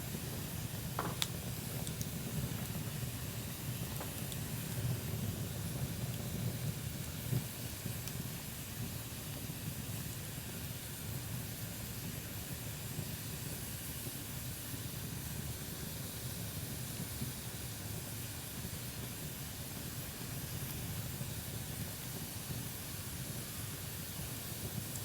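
Wood bonfire burning with a steady hiss and low rumble, and a few sharp pops in the first several seconds.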